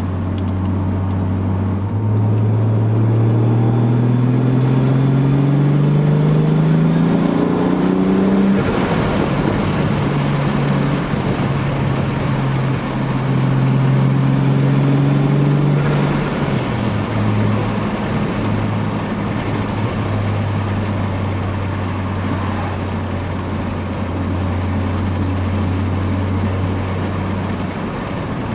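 Toyota Supra Mk3's 7M-GTE 3.0-litre turbocharged inline-six, heard through its exhaust while driving. The revs climb steadily for about six seconds, then drop with a brief rush of noise at a gear change. It then runs steadily at part throttle, with a further step down in revs about two-thirds of the way through.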